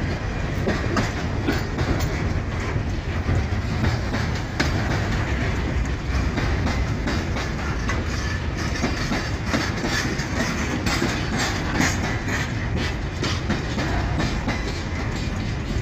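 Empty freight wagons rolling past with a steady low rumble and repeated sharp clacks of the wheels over the rail joints.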